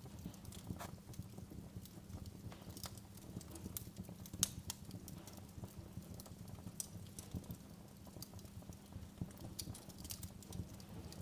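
Wood fire in a fireplace crackling, with irregular sharp pops over a steady low rumble; one pop stands out about four and a half seconds in.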